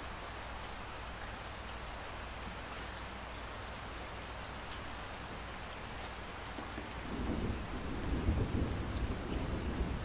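Steady rain hissing with scattered drop ticks, and a roll of thunder that rumbles in about seven seconds in and grows louder toward the end.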